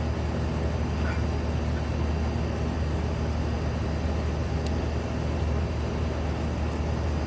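A steady low mechanical hum, level throughout, with a few faint small ticks.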